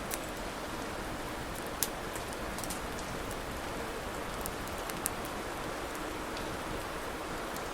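Wood fire burning with a steady hiss and scattered sharp crackles and pops from the burning logs, the loudest about two seconds in and again about five seconds in.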